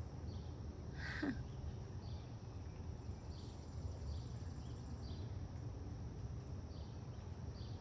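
Outdoor ambience: a steady low rumble with faint, scattered high chirps, and one short louder call about a second in.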